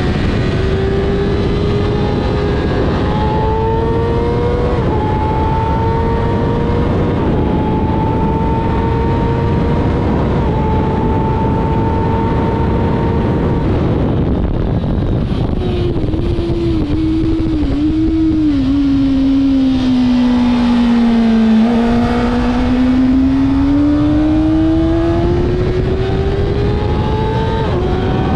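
Kawasaki ZX6R sport bike's inline-four engine at high revs on a racetrack, heard onboard over steady wind rush. The note climbs through two or three upshifts, holds, then drops with a few quick throttle blips as the rider downshifts and brakes about halfway through, before rising again as the bike accelerates out of the corner.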